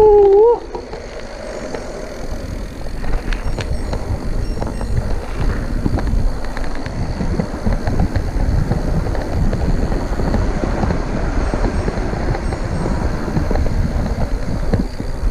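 Wind buffeting the microphone and the rumble and rattle of a mountain bike being ridden along a forest trail, with a short exclaimed 'oh' right at the start.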